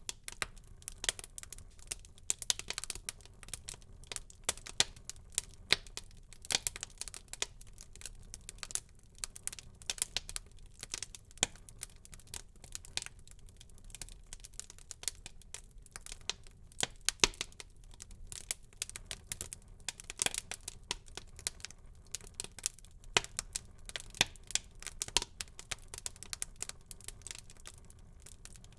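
Wood fire burning in a fireplace, crackling with many sharp, irregular pops over a faint low hiss.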